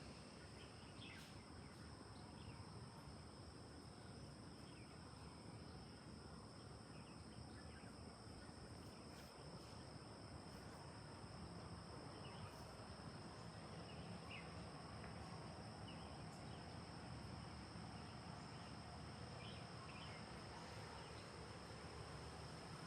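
Faint forest ambience: insects keep up a steady high-pitched drone throughout, with a few short faint bird chirps here and there over a low background rumble.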